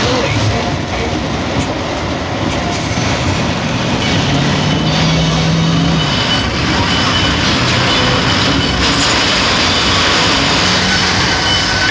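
Loud, steady rushing noise, with a brief low hum about four to six seconds in.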